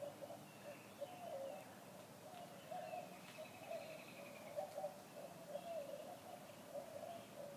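Birds calling outdoors: a low, wavering call repeated over and over, with a higher, quick trill for a couple of seconds partway through.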